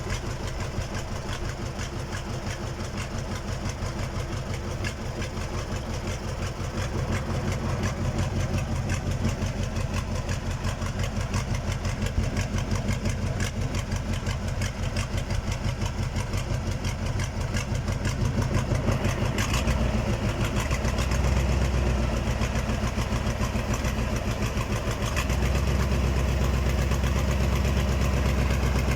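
Freshly rebuilt KAMAZ truck diesel engine running steadily with an even rhythmic beat on one of its first runs after a major overhaul. Its note deepens and gets louder about two-thirds of the way through, and steps up again near the end.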